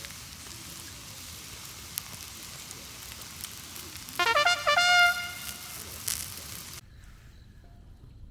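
Wood fire crackling and hissing in a compact fire pit, with a few sharp pops. About four seconds in, a loud brief horn-like tone swoops up and holds for under a second. Near the end the crackle cuts off abruptly to a faint background.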